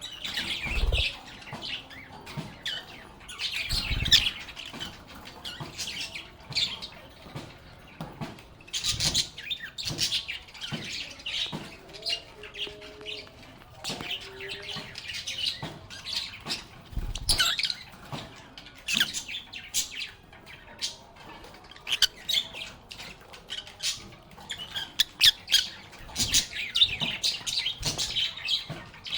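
A group of lovebirds chirping and chattering constantly in rapid high chirps and squawks, with a few low thumps scattered through.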